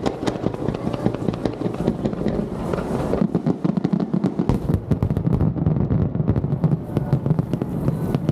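Wide starmine fireworks: a rapid barrage of shells bursting, many sharp bangs and crackles one after another over a continuous rumble, growing denser about halfway through.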